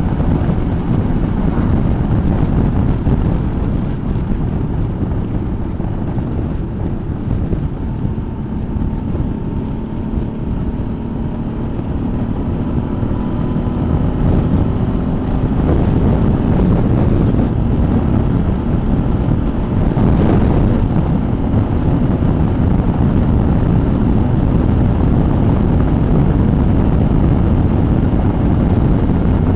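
Suzuki V-Strom motorcycle engine running under way, with wind rushing over the microphone; it gets louder about halfway through.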